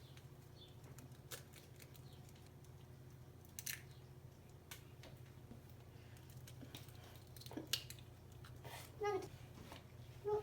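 Faint steady low hum with a few soft clicks and knocks spread through, and a couple of short squeaky chirps near the end.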